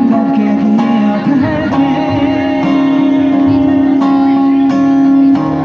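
Acoustic guitar strummed in a steady rhythm under a singing voice holding a long note.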